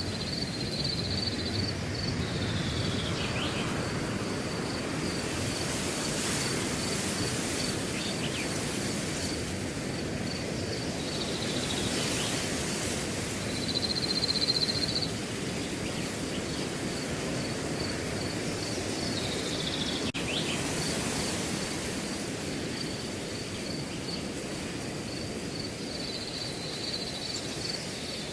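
Wind rustling through a grass field, swelling in gusts now and then, with a cricket chirping steadily throughout at about three pulses a second. A few brief falling calls sound over it.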